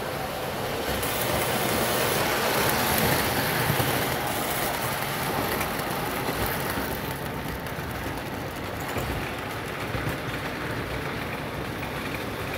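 Lionel Fairbanks-Morse Trainmaster 2321 O-gauge model locomotive running along track with its train: a steady rumble of motor and wheels that swells for a couple of seconds about two seconds in, then carries on a little quieter.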